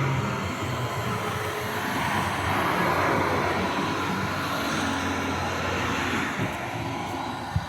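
Tram running on its rails: a steady rumble and hiss with a faint whine that slowly eases off near the end.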